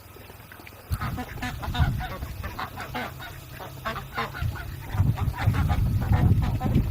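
Fowl calling in a rapid run of short calls, starting about a second in, with a low rumble underneath that grows louder near the end.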